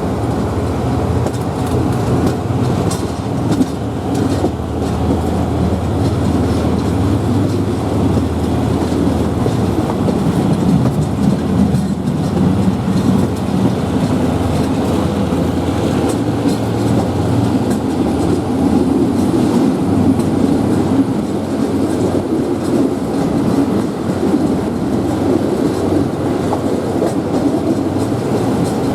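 State Railway of Thailand passenger train running, a steady rumble with the wheels clicking over the rail joints.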